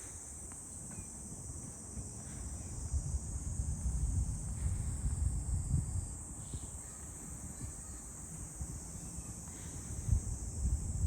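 A steady, high-pitched chorus of insects droning without a break, over an uneven low rumble that swells and fades.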